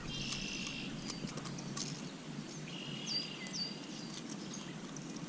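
Birds calling over a faint steady outdoor background: a short high buzzy phrase right at the start, then a held high note with two sharp chirps a little after the middle. A few light clicks come in between.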